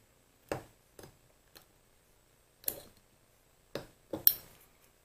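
Small steel and aluminium lathe parts clinking and knocking against each other and the bench as they are handled during assembly: about six separate sharp clicks, the loudest near the end.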